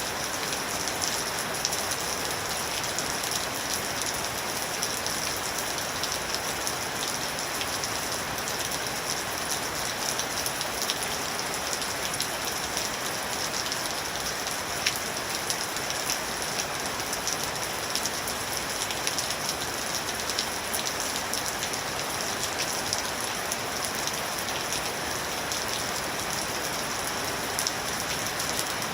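Steady rain falling, an even hiss with the patter of individual drops on a surface.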